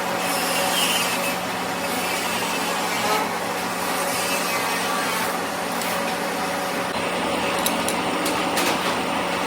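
Steady running machine noise with a constant low hum under a dense hiss, with a few short clicks near the end.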